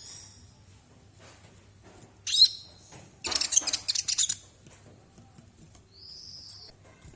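Sunbird calling: a few high chirps at the start, a loud burst of rapid, high twittering chirps from about two to four and a half seconds in, and one short, steady high note near the end.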